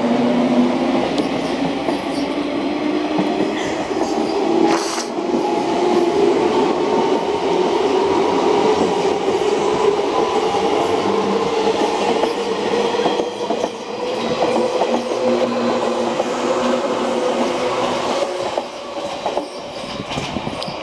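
JR 185 series electric multiple unit pulling out and running past, its traction motors and gears whining in several tones that slowly rise in pitch as it gathers speed, with wheels clicking over rail joints.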